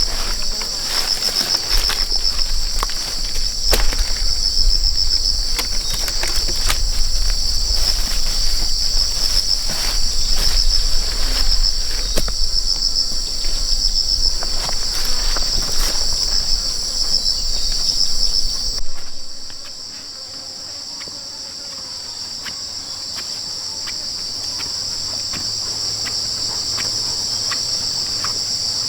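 Chorus of insects making a steady, high-pitched buzzing trill. For the first two-thirds, scattered knocks and a low rumble sit under it; these stop abruptly about two-thirds of the way through, leaving the insects alone.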